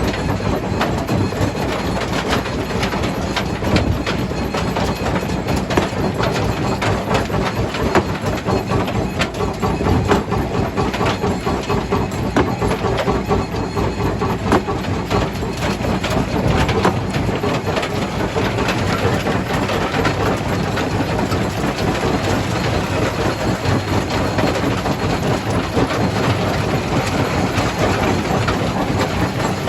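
Jaw crusher running under load: a steady heavy mechanical rumble with continual irregular knocks and clatter of rock being broken.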